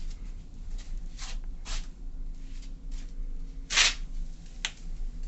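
Waterland pellet stove running with a steady low fan hum, over which come several short rustling noises and, near the end, a sharp click; the loudest rustle is a little under four seconds in.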